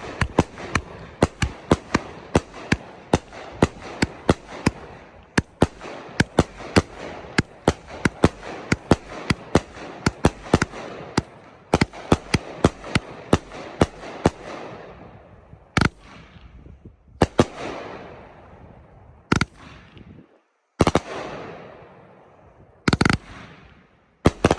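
A 500-gram consumer fireworks cake (repeater) firing its shots: sharp reports come about two to three a second for most of the time, then slow to single bangs a second or two apart near the end, each trailing off in a fading rumble.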